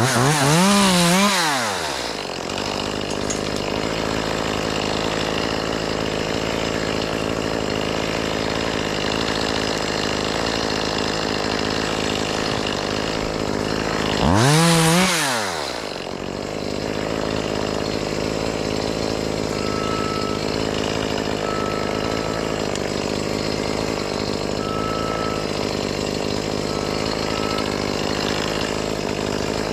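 Chainsaw revved up twice, once near the start and once about halfway through, its pitch climbing and dropping back each time, over a steady engine drone. Faint short beeps repeat in the second half.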